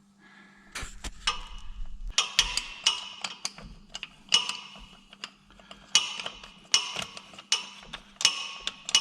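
Hand ratchet clicking in short bursts of strokes with pauses between, sharp metallic ticks that ring briefly, as bolts are worked loose under a Volvo 240 during a gearbox removal. A faint steady hum sits underneath.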